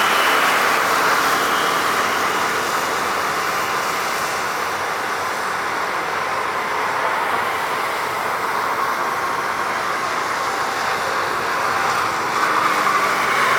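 Jet engine noise from a Batik Air Airbus A330-300 landing on a wet runway: a steady rushing sound that eases a little in the middle and swells again near the end.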